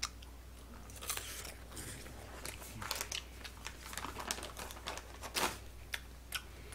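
Close-miked chewing of a crisp fried dumpling (mandu): an irregular run of crunchy clicks and crackles as it is bitten and chewed.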